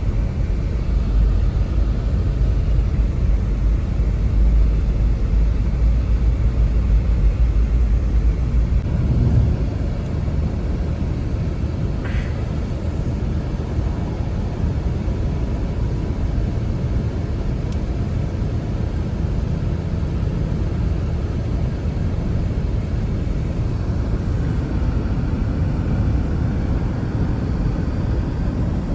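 Blizzard wind rumbling steadily across the microphone, strongest for the first nine or ten seconds, then easing a little.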